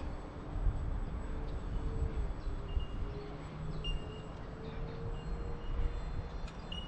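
Electric ducted fan of a Freewing PJ50T RC jet in flight, a faint whine that slowly wavers in pitch as the model moves around the sky. Gusty wind buffets the microphone with a low rumble throughout.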